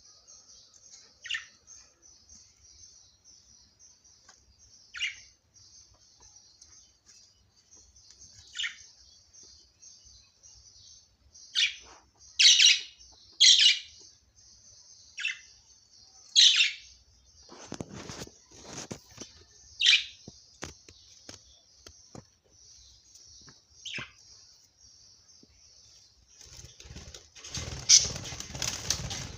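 Budgerigars chattering with a steady, high warble, broken every few seconds by louder sharp calls that fall in pitch. About two-thirds of the way in, and again near the end, wings flutter and flap, loudest at the close.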